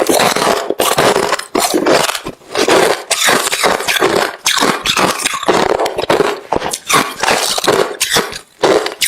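Close-up chewing of hard refrozen crushed ice: rapid loud crunching, bite after bite, with short pauses between mouthfuls.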